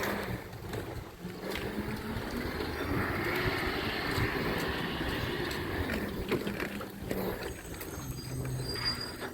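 Recycling truck running steadily, with a rushing noise that swells and fades midway and a few clanks.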